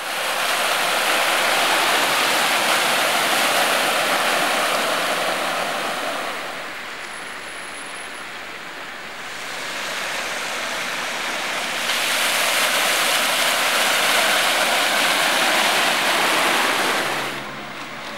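Loud rush of water from a heavy downpour on a flooded street, swelling for about six seconds, easing, then swelling again for about five seconds before dropping back.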